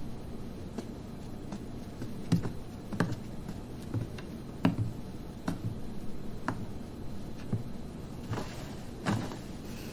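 A series of separate knocks, about one a second and uneven in strength, over a low steady hum.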